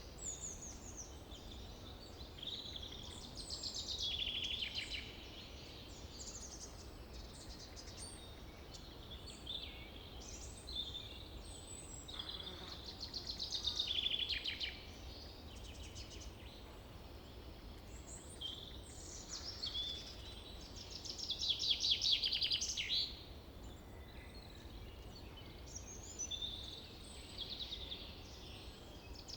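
Small songbirds chirping and singing. Louder, longer songs of rapid notes come three times, about eight seconds apart, over a steady low background rumble.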